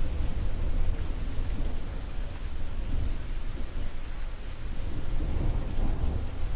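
Steady rain falling, with a low rumble of thunder underneath that swells again about five seconds in.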